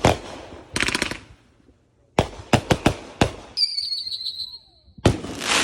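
Consumer fireworks going off: sharp bangs and crackling reports, with a quick run of several in a row about two to three seconds in. A high whistle sounds briefly after them, and a loud hissing burst comes near the end.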